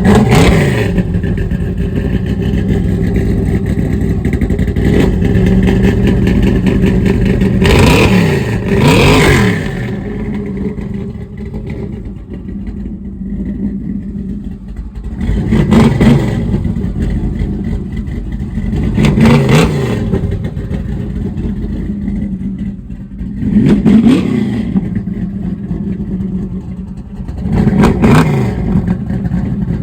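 A vehicle engine running, revved in short blips about every four seconds, each surge rising and falling in pitch.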